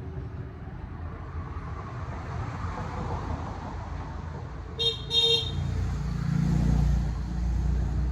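A vehicle horn beeps twice in quick succession over steady engine and road noise. Right after, a louder engine rumble swells and holds.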